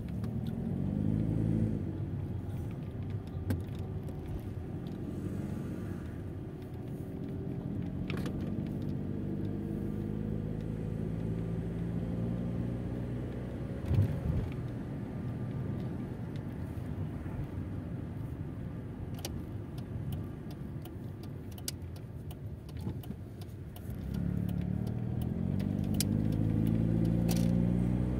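Mercedes-Benz car engine heard from inside the cabin while driving, its pitch rising several times as the car accelerates. Light rattling clicks, and a single knock about halfway through.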